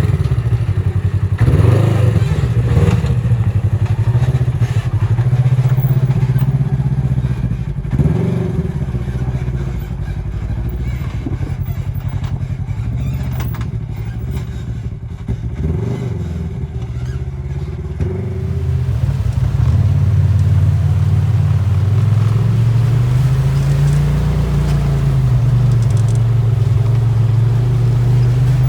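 Polaris RZR side-by-side engine running and revving up and down over rough ground, with clatter and knocks of the machine working over rocks through the first two-thirds. From about two-thirds in, the engine runs smoother and steadier, with a rise and fall in pitch near the end.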